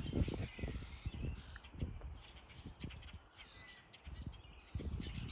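A flock of birds calling and chirping, with many short, overlapping calls, over irregular low thumps.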